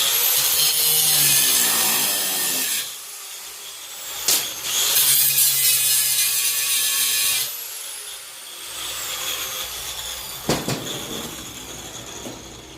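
Angle grinder with a cutting disc cutting through a steel tack weld in two passes of about three seconds each, its whine falling away after each pass. Two sharp metal knocks, one just before the second pass and one about two seconds after it.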